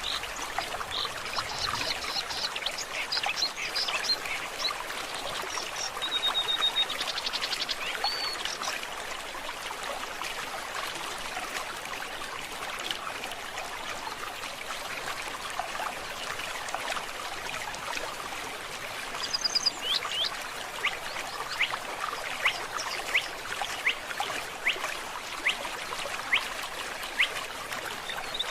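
Forest stream trickling steadily, with birds calling over it: scattered chirps and whistles in the first several seconds, then a quick run of short sharp calls through the last third.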